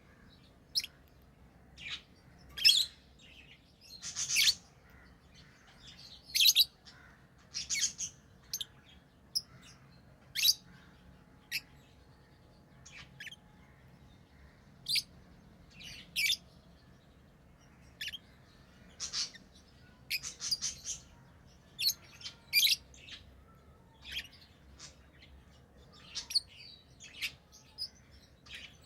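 Lovebirds chirping: short, sharp, high-pitched calls at irregular intervals, often one or two a second.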